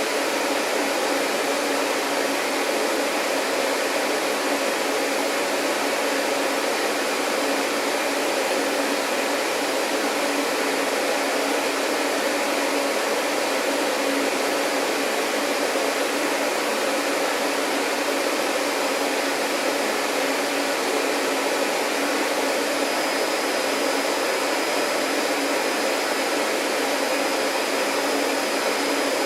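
Vacuum cleaner running steadily: an even rushing of air over a low motor hum, with no change in speed. A faint high whine joins near the end.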